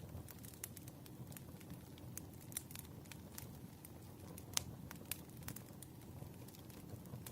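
Burning firewood crackling: irregular small pops and snaps over a low, steady rumble of the fire, with one louder pop about halfway through.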